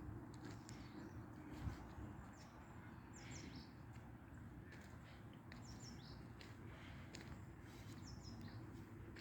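Songbirds chirping faintly: short high chirped phrases, three much alike a couple of seconds apart, over a low steady background hiss.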